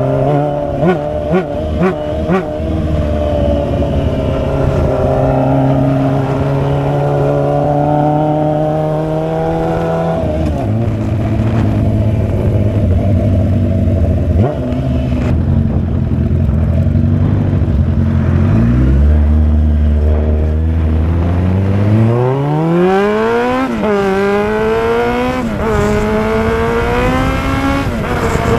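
Straight-piped Suzuki GSX750F inline-four running, with a few quick throttle blips in the first couple of seconds and a steady note after them. Past the middle the bike pulls away: the engine note climbs, dropping back at each of three upshifts.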